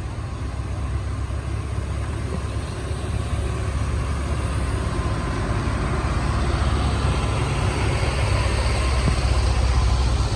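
Heavy truck engine running under load as it climbs a steep grade, growing steadily louder as it comes closer.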